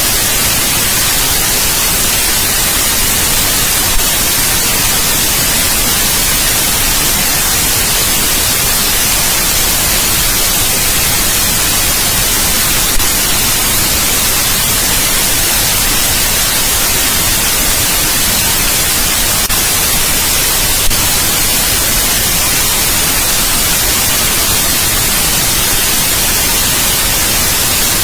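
Steady white noise: an even, unbroken hiss, brightest in the treble, with three faint clicks spread through it.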